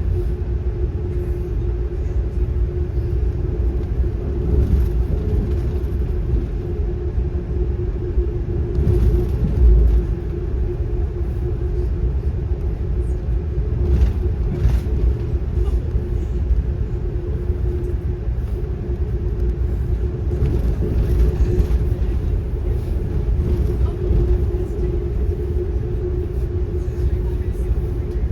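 Steady low rumble of a moving passenger train heard from inside the car, with a constant hum.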